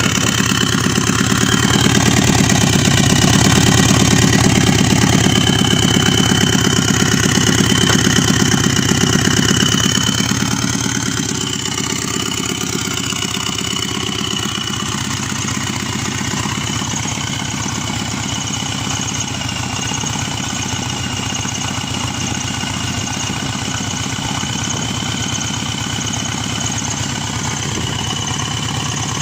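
Subaru EJ255 2.5-litre turbocharged flat-four engine, run out of the car on a pallet, idling with a steady high whine over it. The idle is louder at first, then drops and settles to a steady lower idle about eleven seconds in.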